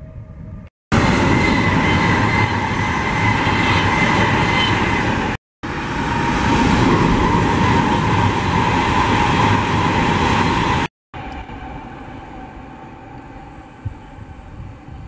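Passenger train passing close below at speed: a loud steady rush of wheels on rail and air, with a thin steady whine over it. It cuts off abruptly twice, then gives way to a much quieter, distant train rumble for the last few seconds.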